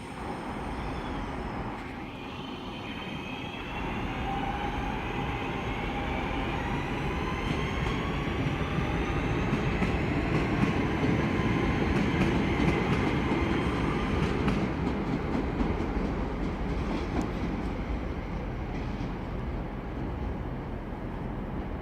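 Class 323 electric multiple unit pulling away and accelerating: its traction motors give a whine of several tones that slowly rise in pitch, over the rumble of wheels on the track. The sound grows louder until about halfway through, then eases off as the train leaves.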